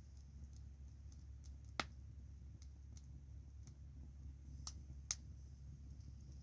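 Wood bonfire crackling: sparse small pops, with three sharper cracks about two, four and a half and five seconds in.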